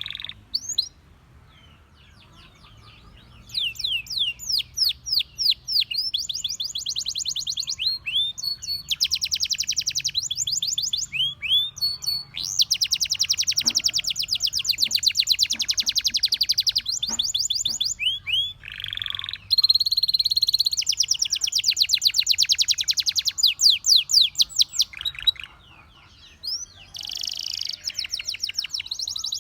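A domestic canary singing: long phrases of fast, high trills and rows of quickly repeated sweeping notes. It pauses briefly near the start and again late on.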